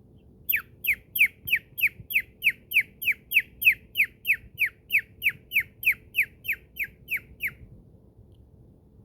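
Cockatiel calling in a fast, even run of about twenty short, falling chirps, roughly three a second, then stopping.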